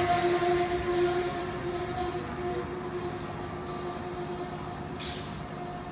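Amtrak passenger train receding after passing at speed, its rumble fading away with a steady ringing tone carried along.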